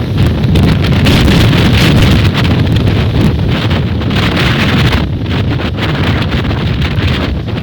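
Strong, gusty storm wind buffeting the microphone: a loud, continuous rumble that swells and eases, slightly weaker over the last couple of seconds.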